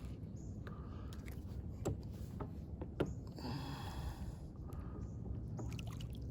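Small kayak on the water: a few sharp knocks against the hull, then a brief rushing splash of water about halfway through, over a steady low rumble.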